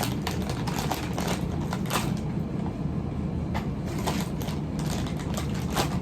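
Scattered sharp crackles and clicks as a pack of chocolate-dipped pretzels is opened and the pretzels are eaten, over a steady low hum.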